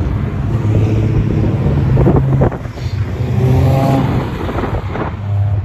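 Drift car engines revving hard at high revs; the sound drops sharply about two and a half seconds in, then builds again.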